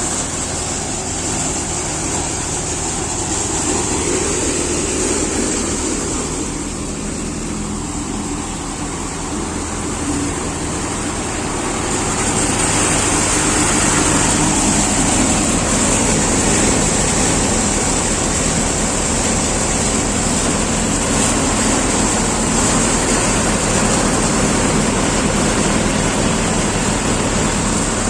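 Tractor engine running steadily, growing louder about twelve seconds in.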